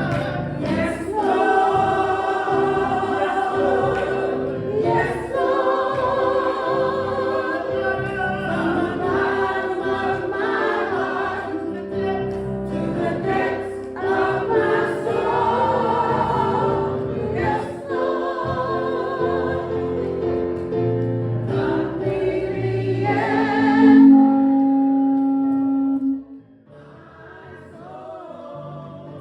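Church choir singing a gospel song. Near the end they hold a long loud note that stops suddenly, and softer music carries on after it.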